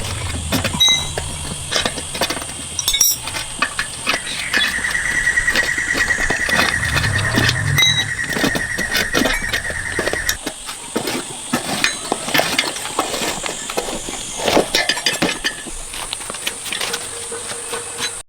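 An engine running with a steady high-pitched squeal over it. Both stop together about ten seconds in. Metallic clinks and taps are heard throughout.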